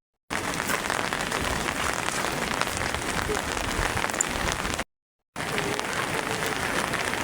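Heavy rain falling steadily, a dense hiss of drops hitting the ground, broken twice by short gaps of silence, at the start and about five seconds in.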